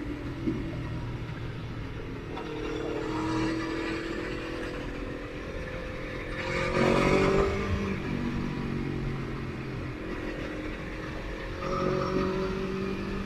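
Motorcycle engine running on the move, climbing in pitch as it accelerates a few times, with a louder rushing surge about seven seconds in.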